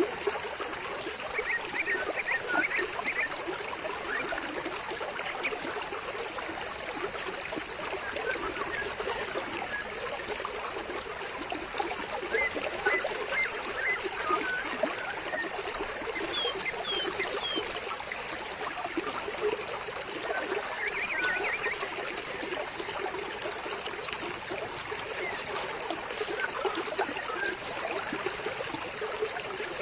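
Flowing water trickling steadily, with short high bird chirps coming in small clusters several times.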